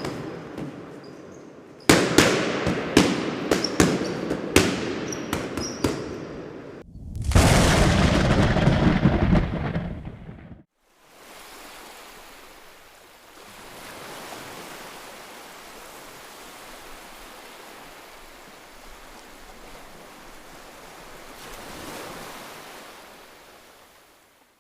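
A string of stock sound effects: sharp crackling bangs for about five seconds, then a loud rushing noise for about three seconds, then a long, steady, softer hiss that swells and fades near the end.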